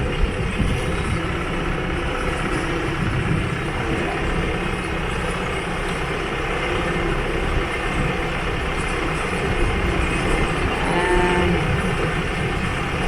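Steady low engine rumble with noise while a boat is brought in for haul-out; a short wavering tone sounds about eleven seconds in.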